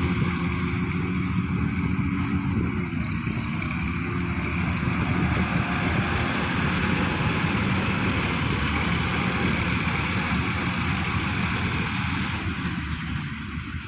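Combine harvester running steadily as it harvests wheat: its diesel engine and threshing machinery make a continuous drone with a dense mechanical noise over it, getting quieter near the end.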